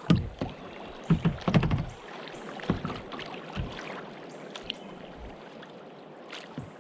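Kayak paddling: paddle strokes splashing in the water, with several knocks and low thumps in the first two seconds and a few more later, over a steady hiss.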